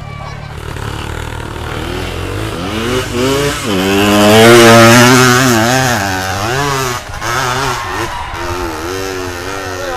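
Motorcycle engine revving hard under load on a steep climb, its pitch rising and falling as the throttle is worked. It is loudest about halfway through, then drops back.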